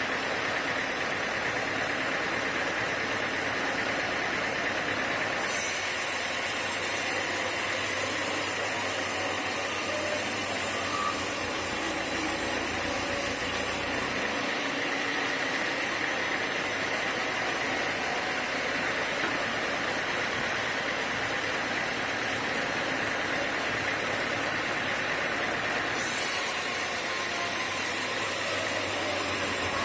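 Sawmill machinery running steadily, an engine-like drone with a constant hiss whose upper part shifts abruptly a few times.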